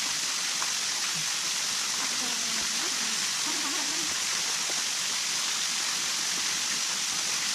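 Steady rushing of water, an even hiss that holds at one level throughout, with faint distant voices underneath.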